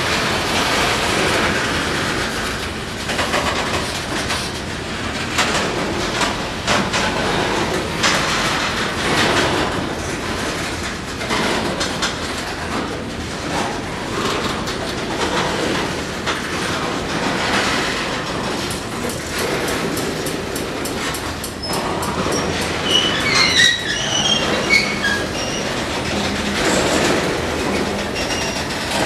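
A train rolling past, a steady rumble with its wheels clicking over the rails, and a few short high-pitched wheel squeals toward the end.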